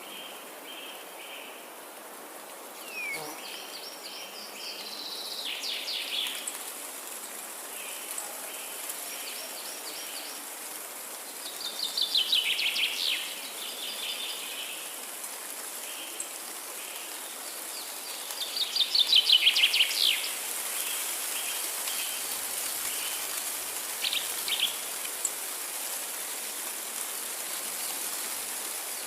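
Forest birdsong: a songbird sings a short, fast trilled phrase three times, about seven seconds apart. Another bird gives steady repeated chirps throughout, over a constant high-pitched hiss of insects or background.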